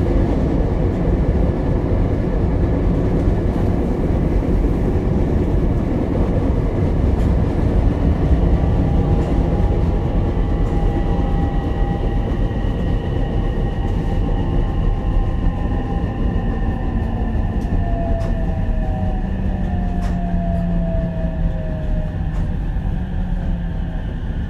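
Ichibata Electric Railway 7000-series electric railcar 7001 running along the track, with a steady rumble and faint whining tones that drift down in pitch during the second half.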